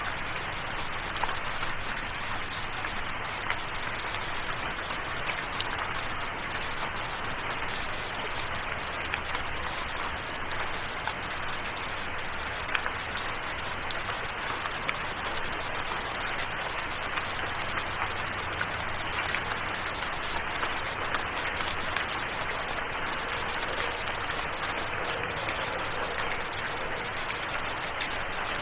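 Steady rain falling as an even hiss, with individual drops ticking sharply here and there.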